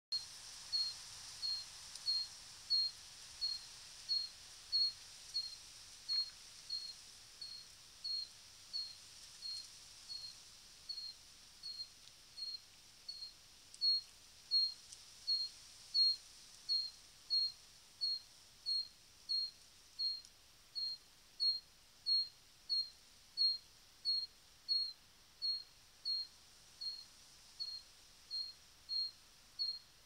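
A bird calling a single short, high note over and over at an even pace, about three calls every two seconds, some louder than others.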